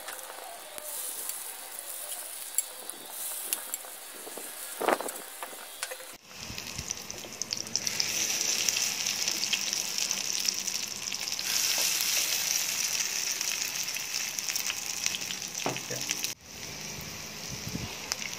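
Corn fritters sizzling as they shallow-fry in hot oil in a frying pan, with the scrape and knock of a plastic spatula turning and lifting them. The sizzle grows louder about six seconds in and drops back near the end.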